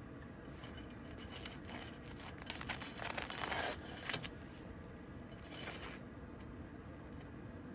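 Small objects being handled: a few light clicks, then about a second of rustling about three seconds in, and a shorter rustle near the end.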